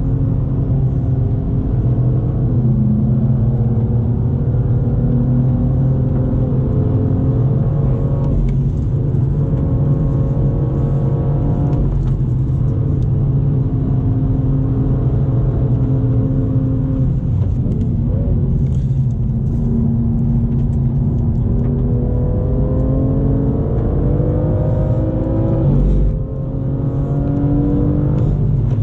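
BMW M2's turbocharged 3.0-litre inline-six heard from inside the cabin under hard track acceleration, its pitch climbing through the gears with sharp breaks at the upshifts about 8 and 12 seconds in and again near the end, over a steady low road and tyre rumble.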